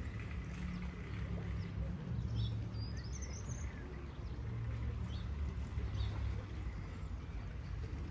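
A steady low rumble, with a few short bird chirps about three seconds in and fainter ones later.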